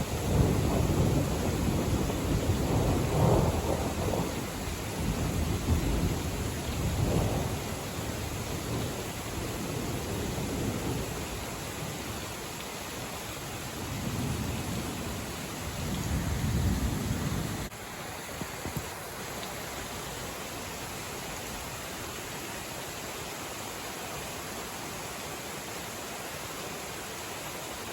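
Thunder rumbling over steady heavy rain. Long rolling rumbles fill roughly the first eight seconds, and another comes around the middle and stops abruptly; after that only the even hiss of rain is left.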